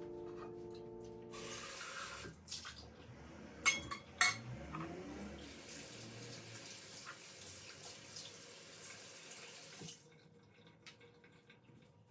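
Water running from a tap into a sink for about eight seconds, then stopping suddenly, with two sharp knocks a few seconds in. A piano note from the background music fades out at the start.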